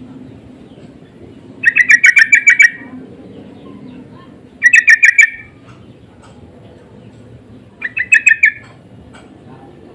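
Yellow-vented bulbul calling: three loud bursts of rapid chattering notes, each lasting about a second, a few seconds apart.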